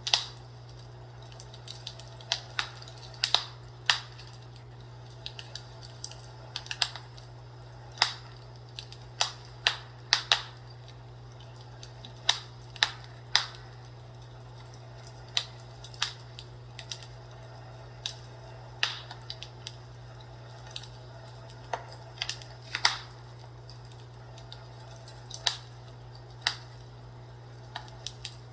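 Fireplace crackling: irregular sharp pops and snaps, one or two every second or so, some in quick pairs, over a steady low hum.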